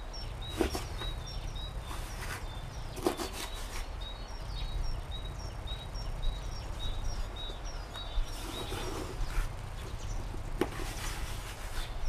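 A small bird chirping over and over in the background, a quick series of short high chirps. Over it, a few sharp clicks and short rustles, about 3 seconds in and again near the end, from hands sifting damp sand and plum stones in a plastic bucket.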